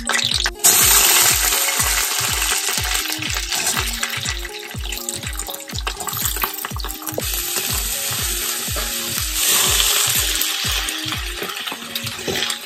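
Chopped vegetables dropped into hot oil in a wok, setting off a loud sizzle that starts suddenly about half a second in. The sizzle carries on as more are added and tossed, easing a little in the middle and swelling again. Background music with a steady beat plays underneath.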